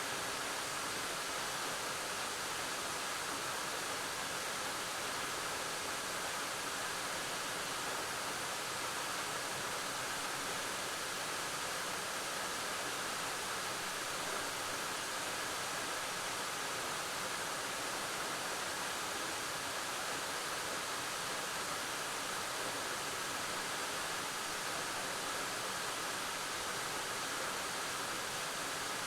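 Waterfall: a steady, unbroken rush of falling water, with no changes or separate events.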